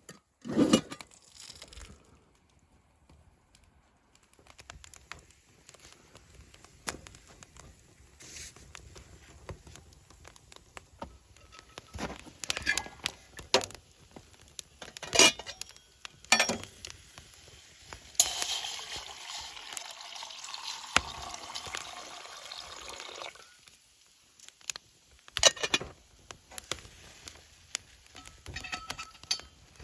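Camp cookware being handled: scattered clicks and knocks of metal utensils, with a steady hiss lasting about five seconds past the middle.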